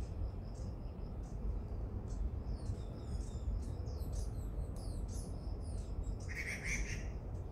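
Small birds chirping in quick, high, short notes, busiest in the middle, with one louder, lower call near the end, over a steady low rumble.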